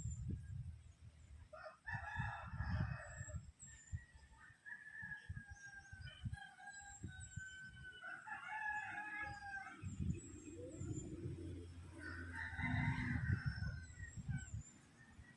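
Rooster crowing: a short crow about two seconds in, a long drawn-out crow in the middle, and another crow near the end. Gusts of wind rumble on the microphone underneath.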